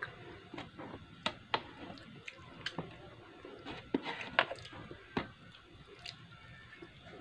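A person eating close to the microphone: wet chewing with sharp mouth clicks and smacks at irregular intervals, and a bite into a fried spring roll (lumpiang shanghai) near the end.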